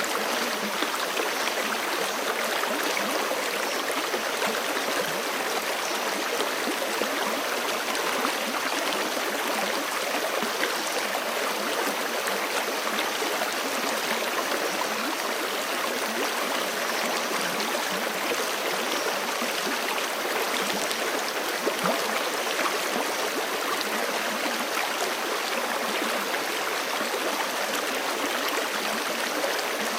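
Forest stream running steadily over rocks: a continuous, even rush and gurgle of flowing water.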